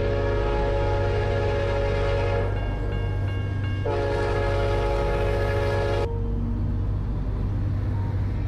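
Train horn sounding two long blasts as the train bears down on a dog on the tracks, the second blast cutting off abruptly. Under the horn runs the train's steady low rumble.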